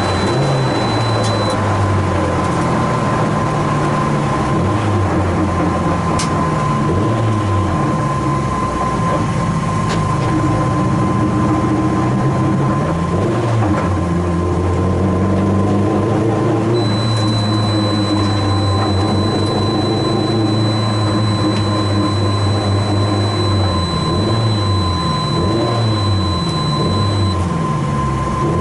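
Car engine under hard acceleration, its pitch repeatedly climbing and then dropping at gear changes, with a steady whine over it. A thin high tone joins for about ten seconds past the middle.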